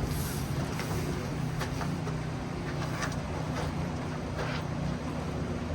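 Mitsubishi Lancer Evolution VIII's turbocharged 4G63 inline-four idling steadily after a cold start, with a few faint clicks over it.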